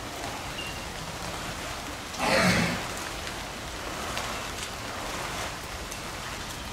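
Steady rain falling, an even hiss. About two seconds in, a brief louder rushing noise lasts about half a second.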